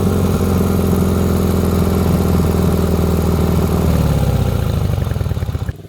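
Dnepr MT-11 sidecar motorcycle's flat-twin engine running steadily under throttle as the bike pulls out after being stuck; it eases off about four seconds in, then the sound cuts off abruptly near the end.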